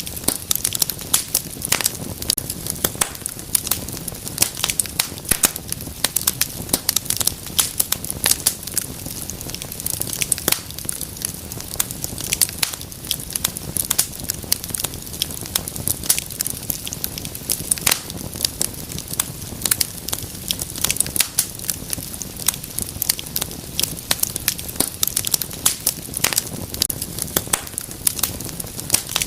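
Wood fire crackling and popping steadily, with many irregular sharp snaps over a low, soft rumble of flames.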